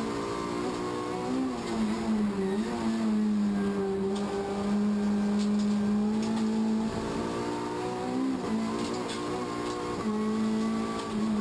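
Race car engine heard from inside its stripped-out cabin, running at steady high revs, its note dipping briefly and climbing back several times.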